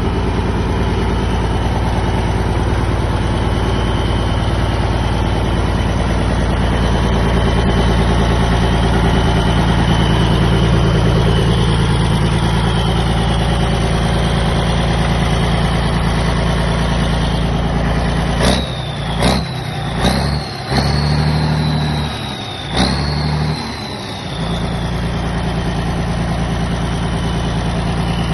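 Scania diesel engine of a 275 kVA Leroy-Somer generator set running steadily. About two-thirds through, a few seconds of sharp clicks, each with a short high whine, come as the engine sound briefly dips and wavers, then it settles back to its steady run.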